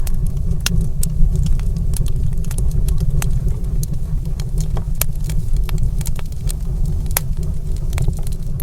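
Wood fire crackling in a stone fireplace: irregular sharp pops and snaps, several a second, over a steady deep rumble.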